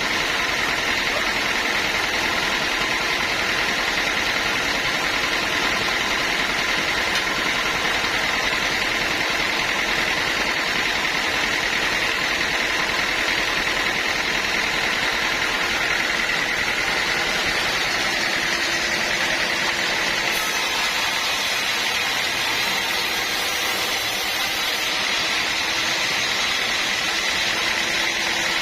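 Sawmill machinery running steadily: a constant, loud mechanical din with a steady high tone running through it.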